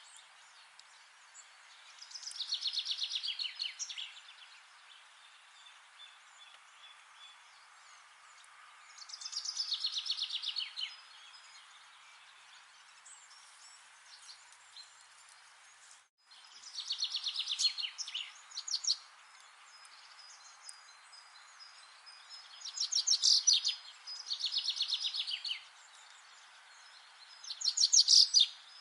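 A songbird singing a short, fast trill of rapidly repeated notes, about six times at intervals of a few seconds, over a steady background hiss.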